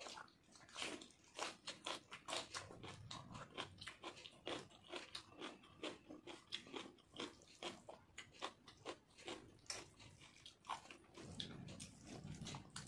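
A person eating rice and dal by hand: chewing with many quick, wet mouth smacks and clicks.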